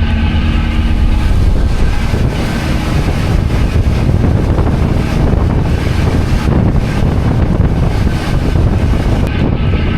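Wind blowing on the microphone aboard a moving cruise boat, with the boat's engines running underneath as a steady low rumble.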